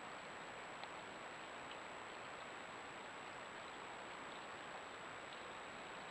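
Steady hiss with a thin, constant high-pitched tone: the self-noise of a trail camera's built-in microphone, with a faint tick about a second in.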